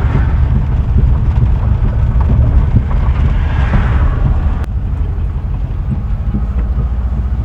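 Volkswagen Kombi van driving, heard from inside the cabin: engine and road rumble with a light knocking from the right-side wheel, which the owners take for a failing wheel bearing. A sharp click a little before five seconds in, after which the rumble is slightly quieter.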